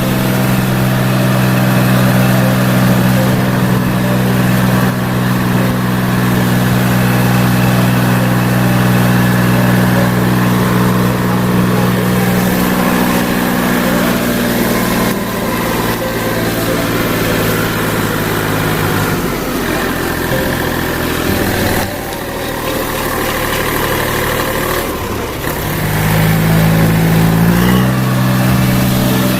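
Swaraj 735 FE tractor's diesel engine running steadily; its note drops back about halfway through and picks up again near the end.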